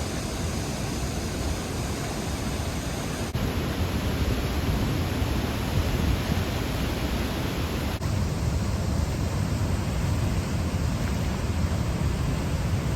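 Steady rushing roar of a fast-flowing waterfall heard up close, its tone shifting slightly a few seconds in and again about eight seconds in.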